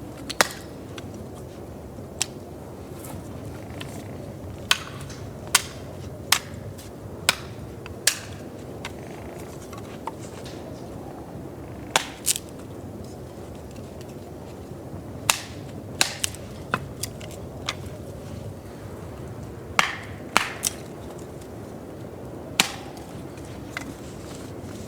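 Irregular sharp strikes of a hand tool, about twenty of them, some in quick pairs, over a steady low rushing background.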